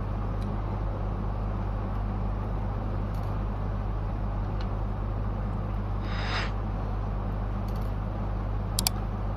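Steady low hum under the handling of a laptop as its battery is taken out: a few faint clicks and a brief scrape about six seconds in, then more clicks near the end.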